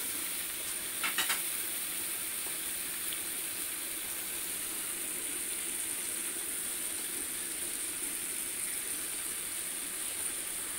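Onion, chilli and yogurt masala sizzling steadily in hot oil in a wok as it is fried down, with a couple of short clicks about a second in.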